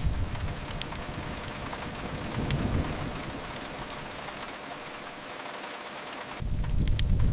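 Steady rain hiss mixed with scattered sharp crackles of a wood fire. A deep low rumble fades away in the first second, swells briefly midway, and comes back suddenly and loud near the end.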